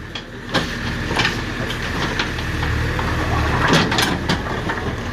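Diesel engine of a JCB backhoe loader running steadily, with several sharp knocks and clatters from the demolition work, clustered about three and a half to four seconds in.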